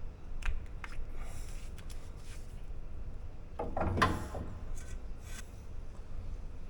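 Hands working the greased glide pins and small metal parts of a car's rear brake caliper: light rubbing and a couple of clicks, with a louder metal clatter and brief ring about four seconds in.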